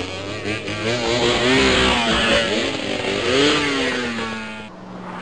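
Motorcycle engine revving as it roars by, its pitch rising and falling several times, then cutting off suddenly near the end.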